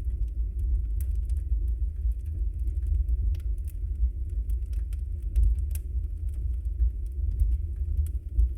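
Wood fire burning in a fireplace: a steady low rumble of the flames with scattered sharp crackles and pops, irregular throughout.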